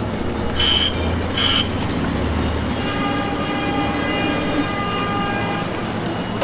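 A low rumble with two short, high toots about a second in. About three seconds in, a steady horn-like tone is held for nearly two seconds.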